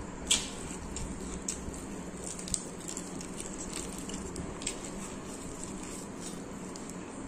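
Close-up wet chewing and biting as meat is torn off a kalmi kabab leg piece, with scattered small mouth clicks and smacks; the sharpest click comes about a third of a second in.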